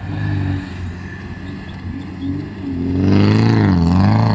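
Car engine working off-road, running steadily at first, then louder from about three seconds in, its pitch rising and falling as it is revved.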